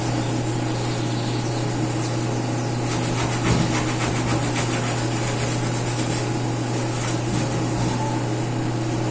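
A steady machine hum, like a motor running, with one faint knock about three and a half seconds in.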